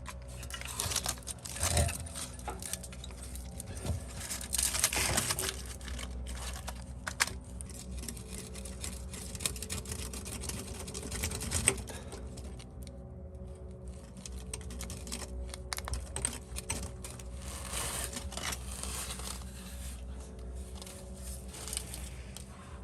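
Hands and tools working on car parts: scattered clicks, rattles and rustling, irregular throughout, over a steady low hum.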